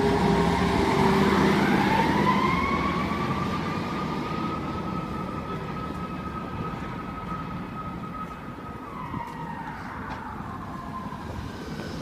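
Fire apparatus siren winding up over a few seconds, holding a steady high pitch, then winding down near the end, growing fainter as the rig moves off. A multi-tone horn chord dies away in the first second or two.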